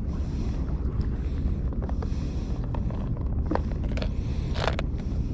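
Wind buffeting the microphone, a steady low rumble, with a few light clicks partway through.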